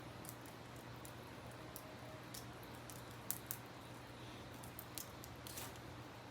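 Campfire crackling, with scattered sharp pops, the loudest about halfway through, over the steady rush of a river.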